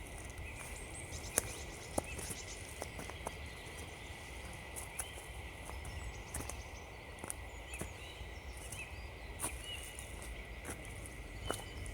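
Winter woodland ambience: small birds chirp briefly now and then over a low, steady rumble, with scattered sharp clicks and crackles.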